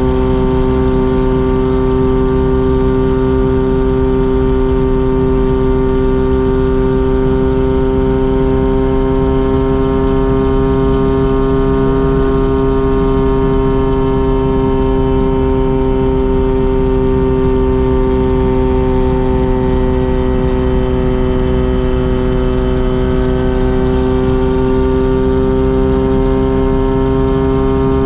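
Mazda RX-7 rotary engine and exhaust droning at a steady cruise, one held engine note whose pitch sags slightly midway and climbs again near the end.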